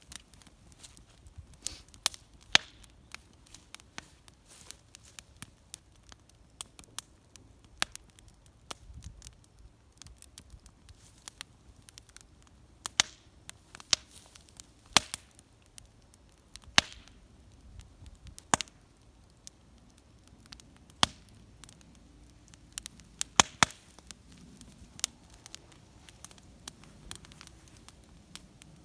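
Wood fire crackling in a small homemade metal fire pit: irregular sharp pops and snaps, a few of them much louder than the rest.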